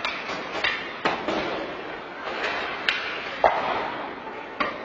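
Ice hockey play: sharp clacks and knocks of sticks, puck and boards over a steady noisy rink background, the loudest bang about three and a half seconds in.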